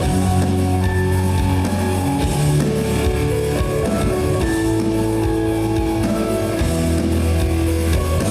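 Live rock band playing an instrumental passage: electric guitars holding chords over a drum kit, loud and steady, with no vocals.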